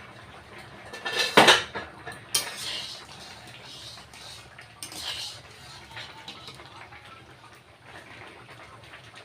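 Metal utensils clattering on a cooking pot, with one loud clank about a second and a half in and a few lighter clinks and scrapes after it.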